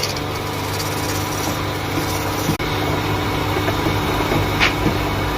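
A woodworking machine's motor running steadily with a low hum, with a few light knocks and a brief hiss about four and a half seconds in.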